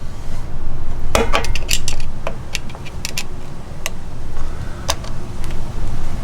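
Flathead screwdriver clicking and scraping against the drain screw of an outboard lower unit: a run of sharp metallic ticks starting about a second in, over a low steady rumble. The screwdriver is too small to get the leverage to turn the screw.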